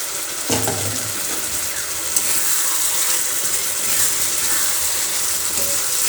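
Chicken pieces in yogurt masala sizzling in hot oil in an open pan, a steady hiss, with one knock against the pan about half a second in.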